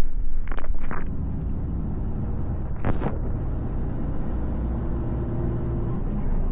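Mercedes Actros L lorry on the move: steady low rumble of the diesel engine and road noise. There are a few short knocks in the first second and a brief louder burst about three seconds in.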